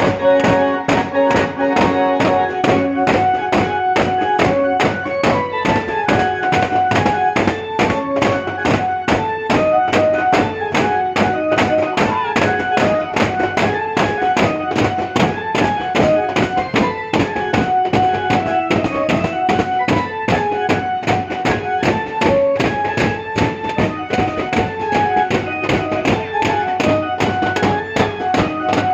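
Instrumental devotional kirtan music: a harmonium playing a melody of held notes over fast, steady drum and cymbal beats.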